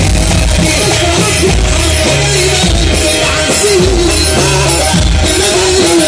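Loud live Egyptian wedding band music: a wavering melody over a heavy, pulsing bass and drum beat.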